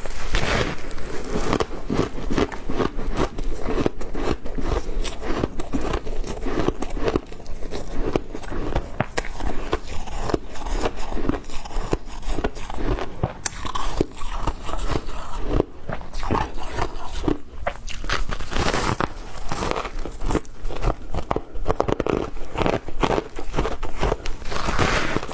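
Close-miked biting and chewing of frozen matcha ice: dense, rapid crunching and crackling that keeps up through the whole stretch.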